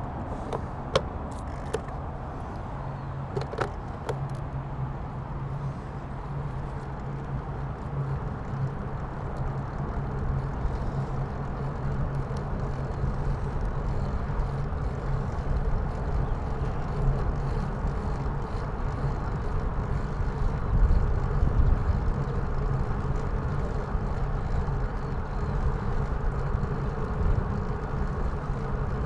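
A vehicle engine hums steadily under road and wind noise while riding, with a few sharp clicks in the first few seconds and the noise swelling about two-thirds of the way through.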